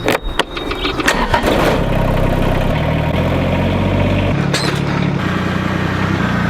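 An engine starting: a few sharp clicks and knocks, then it catches and runs steadily, its pitch shifting a few times.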